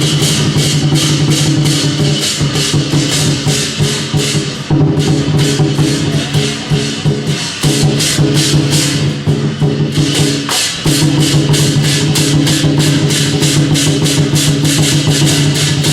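Procession music: percussion struck in a steady rhythm about four times a second over held pitched tones, with brief breaks about five and eleven seconds in.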